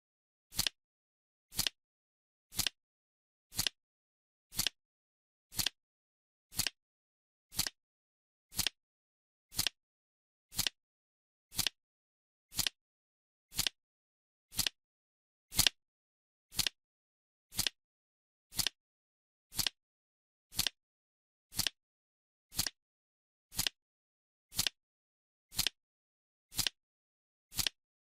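Countdown timer's clock-tick sound effect: one short, crisp tick every second, evenly paced, with dead silence between ticks.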